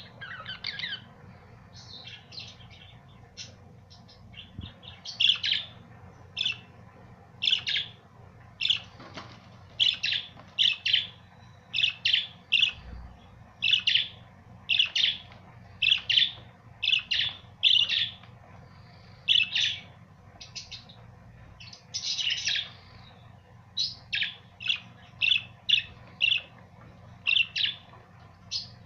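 Pet budgerigars chirping: a long run of short, sharp calls, roughly one or two a second.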